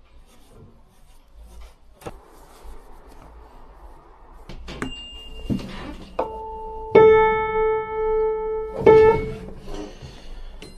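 Single piano keys struck and left to ring on a piano that has gone long without tuning: a high note, then a mid-range note struck three times, the second strike the loudest, as the tuner checks its pitch. Before the notes come a few knocks and rubbing sounds.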